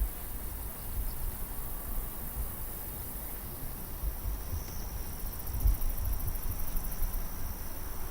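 Crickets trilling, a steady high-pitched chirring that comes in about halfway through, over irregular low rumbling bumps.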